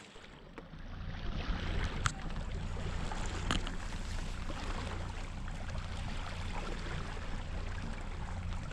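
Boat underway: a steady low rumble under a hiss of wind and water, with a few sharp knocks about two and three and a half seconds in.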